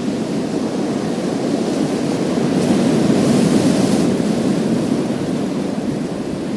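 Sea waves washing onto a pebble beach: a steady surf noise, with one surge building about two and a half seconds in, peaking with a bright hiss and easing off toward the end.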